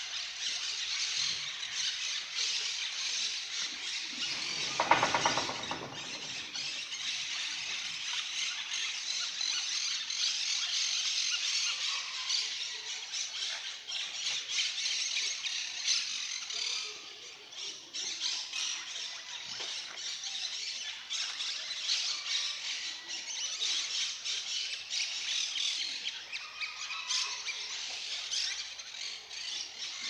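Dense, continuous chirping and chattering of many small birds, with one short loud squeal about five seconds in.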